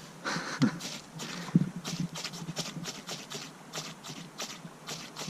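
Fire steel (ferrocerium rod) being scraped hard with a striker to throw sparks and light a fire: a quick run of short, rasping strokes, about three a second.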